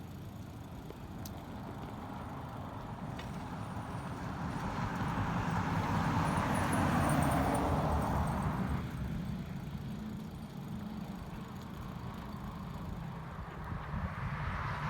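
Road vehicle noise over a steady low rumble; about halfway through, a vehicle's noise swells up and fades away over roughly five seconds, as when it passes close by.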